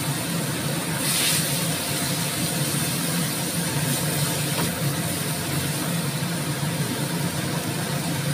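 Julienned carrots, chilies and mushrooms sizzling and simmering in a little water in a wok while a wooden spatula stirs them, with a brief louder hiss about a second in. Underneath runs a steady low mechanical hum.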